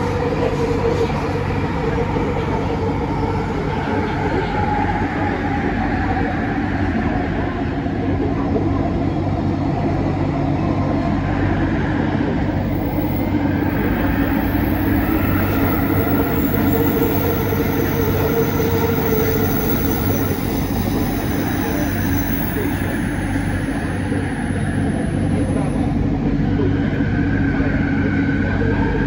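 Cabin of a Bombardier Innovia ART 200 light-rail train running at speed: a steady rumble of wheels on track with a constant motor hum. High-pitched wheel screech comes in through the middle stretch for about fifteen seconds.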